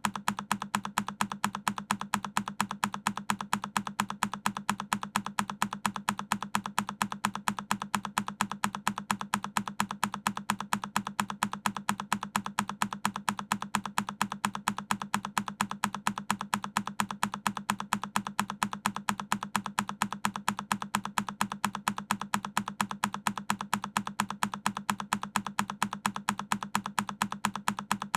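A single key press on a Keychron K10 mechanical keyboard, looped: the same click repeating at an even rhythm of about three presses a second.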